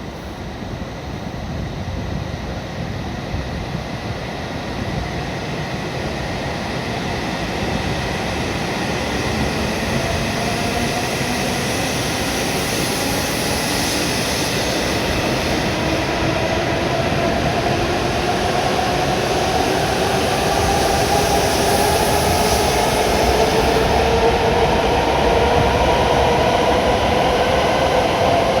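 W7-series Shinkansen pulling away from the platform. Its traction motors give a whine that rises slowly in pitch and grows louder as the train gathers speed, over running and rail noise.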